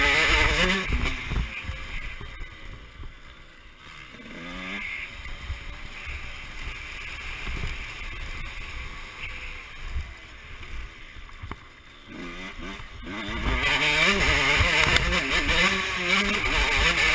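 Motocross dirt bike engine revving up and down as it is ridden, its pitch rising and falling with the throttle, louder over the last few seconds.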